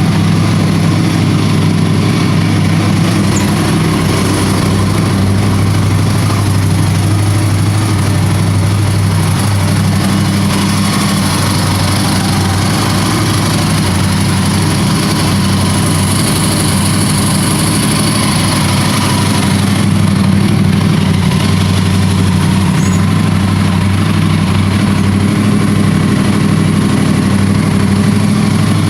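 Yamaha R1 crossplane 'big bang' inline-four motorcycle engine idling steadily, with the uneven, lumpy beat of its irregular firing order.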